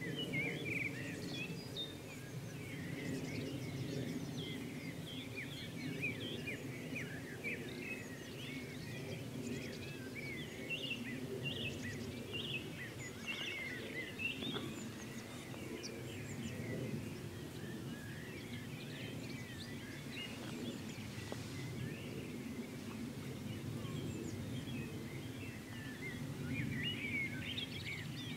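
Small birds chirping and twittering again and again over a steady low rumble of background noise.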